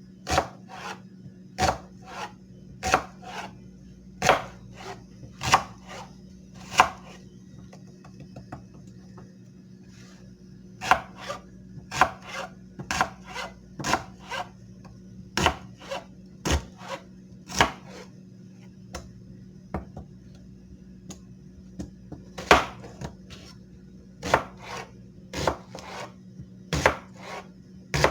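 A knife blade stroked over and over across a sharpening surface: short, sharp scraping strokes at an uneven pace of about one a second, with two pauses of a few seconds, over a steady low hum.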